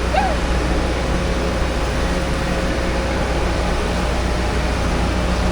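Steady background noise: an even hiss over a low hum, with no distinct event.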